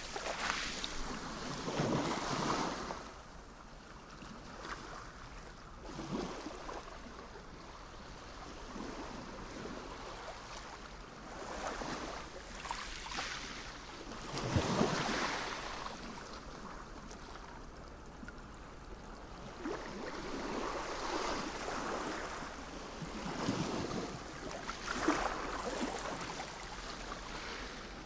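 Sea waves breaking and washing in. The rush of water swells and fades every few seconds, loudest about halfway through.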